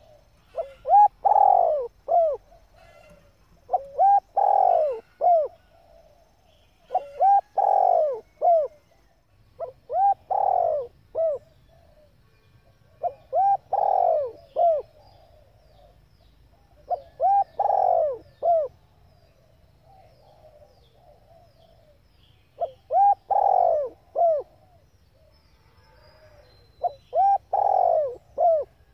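Female spotted dove cooing, the call used to stir up male decoy doves: eight short phrases of three or four notes, one about every three seconds, with a longer pause about two-thirds of the way through.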